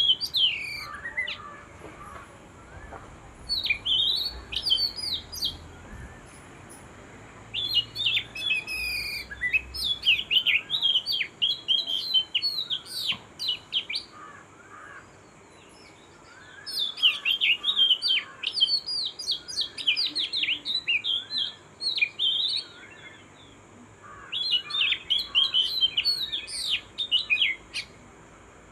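Songbird singing in long phrases of rapid, high, sliding chirps, four phrases of several seconds each separated by short pauses, with fainter lower calls from other birds underneath.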